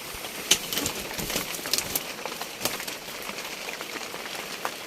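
Rain falling on a leaking roof: a steady patter with scattered sharp drips of water coming through.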